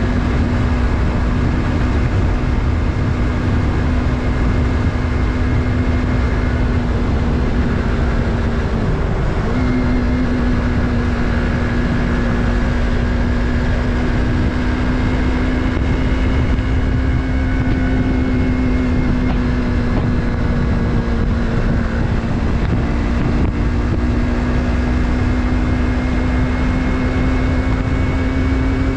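Yamaha MT-03's 321 cc parallel-twin engine running steadily while riding, its note holding level, with a brief dip about nine seconds in.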